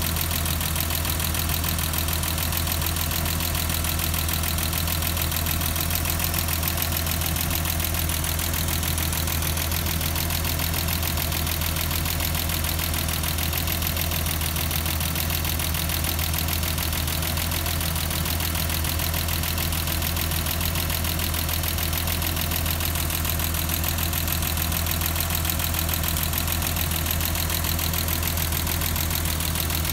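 BMW M20B25 2.5-litre straight-six engine idling steadily.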